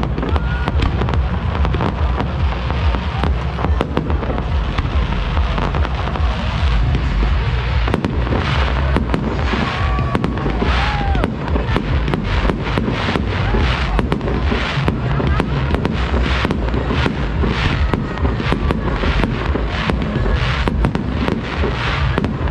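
Fireworks display going off in rapid succession: low booming bursts with sharp cracks and crackling over a continuous rumble, coming much thicker from about eight seconds in.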